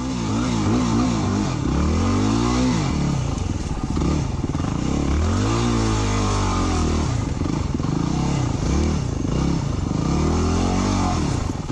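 Off-road motorbike engine under throttle while riding. The pitch rises and falls in repeated surges as it accelerates and eases off, with some clatter.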